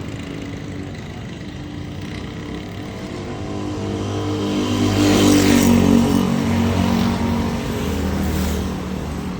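A motor vehicle's engine passing close by on the road over steady traffic noise, growing louder to a peak about five to six seconds in and then fading.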